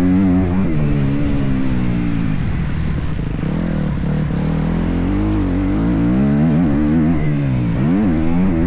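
Motocross dirt bike engine revving, its pitch rising and falling with the throttle, held lower and steadier in the middle, with a quick rise and drop near the end.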